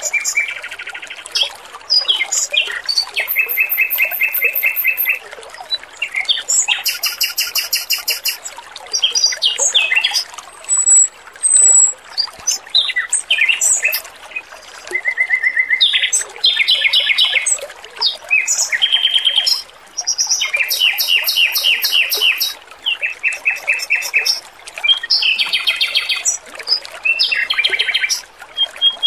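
Male Pekin robin (red-billed leiothrix) singing phrase after phrase of fast trills and chirps, each a second or two long with short pauses between, over a steady trickle of running water.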